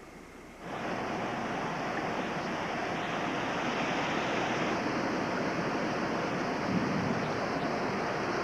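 Hurricane wind and rain, a steady loud rushing noise that starts abruptly about half a second in.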